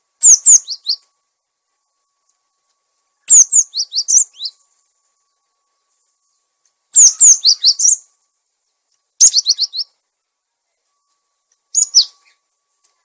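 Cinereous tit (gelatik batu) calling, played as a lure-call recording: five short bursts of quick, high, downward-sliding notes, spaced a few seconds apart, with dead silence between them.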